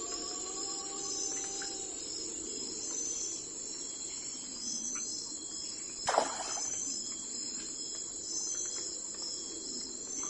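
Crickets chirping in a steady, repeating high-pitched rhythm over a soft, even background hiss. About six seconds in, a single short, louder sound cuts through.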